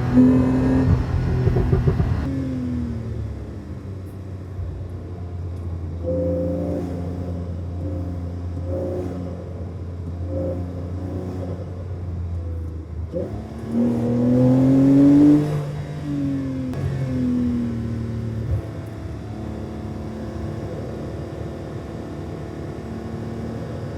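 2022 Porsche 911 Targa 4 GTS's twin-turbo flat-six engine and exhaust. It is loud at first and drops away after about two seconds, then gives a few short rises in pitch. About fourteen seconds in, a loud rev climbs and falls again, and the engine settles to a lower, steady running.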